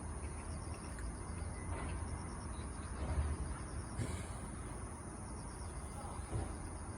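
Steady high-pitched insect chirring over a low outdoor rumble, with a few faint soft clicks.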